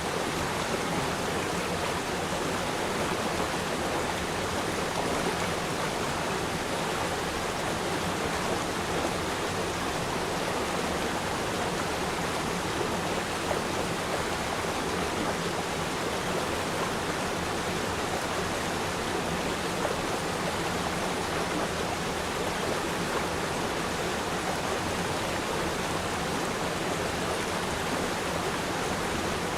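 Stream water flowing steadily over rocks, an even rushing babble with no breaks.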